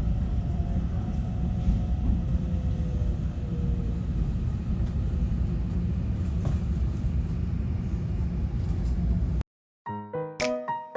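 Steady low rumble of an EMU900 electric multiple unit running, heard from inside the passenger car, with a faint motor whine that slowly falls in pitch. It cuts off abruptly about nine and a half seconds in, and a short plucked-note music jingle starts.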